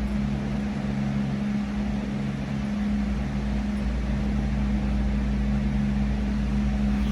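A steady mechanical hum with a constant low drone and rumble, unchanging throughout.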